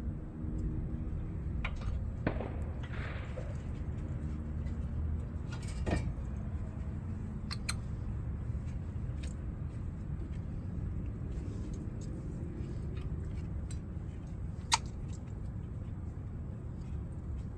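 A few sharp, scattered metal clicks and clinks from handling rear brake caliper parts and tools, over a steady low hum.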